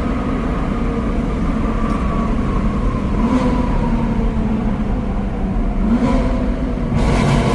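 BMW M4's twin-turbo straight-six exhaust note, the engine running with a few short revs that rise and fall in pitch, about three seconds in, near six seconds and again near the end.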